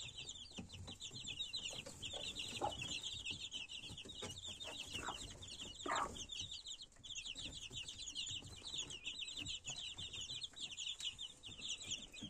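A brood of young chicks peeping all together, a continuous stream of quick, high cheeps, with a few low clucks from the mother hen about three and six seconds in.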